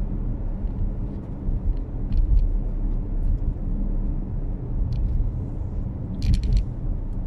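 Car interior road and engine rumble while driving, steady and low, with a few short clicks, the loudest about six seconds in.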